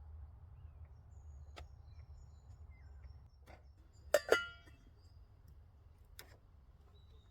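Outdoor forest ambience with a steady low rumble and faint bird chirps. About four seconds in comes a sharp double clank that rings briefly, with a few small clicks before and after it.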